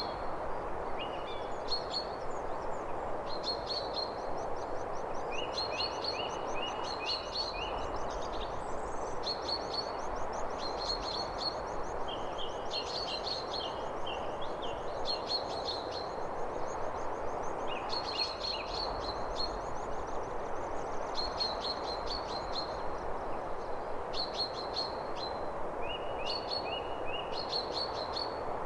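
Songbirds chirping in short, quick phrases of high notes that repeat every second or two, over a steady even hiss.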